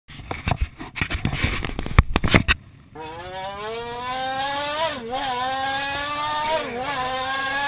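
Irregular knocks and clatter for the first two and a half seconds, then a small off-road vehicle's engine revs up and is held at high revs, its pitch slowly rising and dipping briefly twice.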